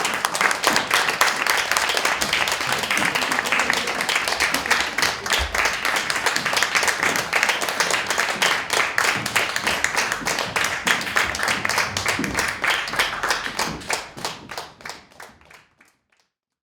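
Audience applauding, thinning out over the last couple of seconds to a few scattered claps as it dies away.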